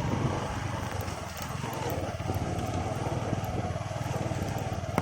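A vehicle's engine running steadily while it is driven slowly over a rough, flood-damaged road.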